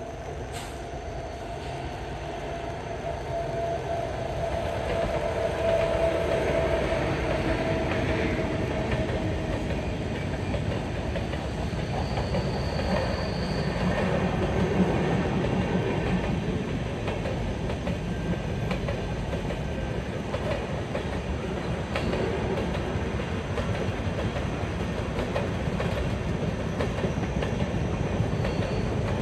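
Express passenger train running by, growing louder over the first several seconds and then a steady rumble of wheels over the rails. A thin whine sounds at the start and fades out.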